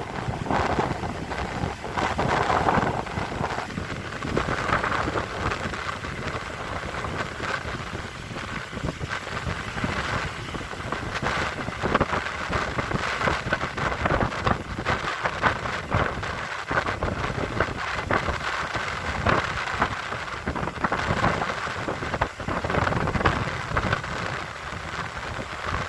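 Strong wind gusting and buffeting the microphone, a continuous rough rumble and rush with constant rapid flutter.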